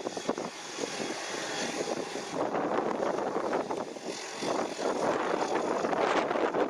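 Aircraft engines running: a dense rushing noise that swells and dips, with a faint steady high whine at times.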